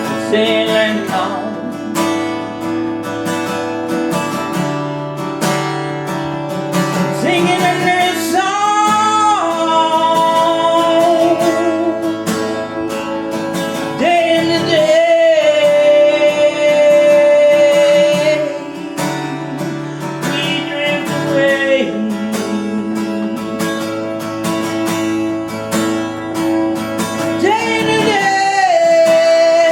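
Acoustic guitar strummed steadily, with long held sung notes over it at three points and no clear words.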